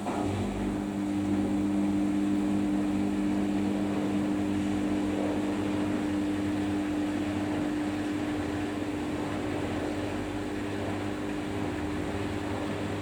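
Samsung washing machine running with a steady motor hum that holds a fixed pitch; a clear low tone sets in about half a second in.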